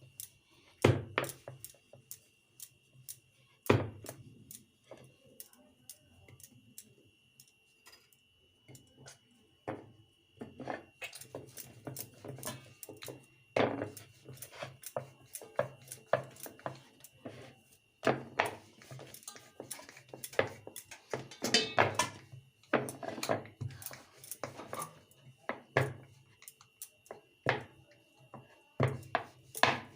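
Kitchen utensil and dishware sounds: irregular sharp taps, knocks and clinks against a bowl, with a denser run of quick taps about two-thirds of the way through, fitting eggs being cracked and beaten.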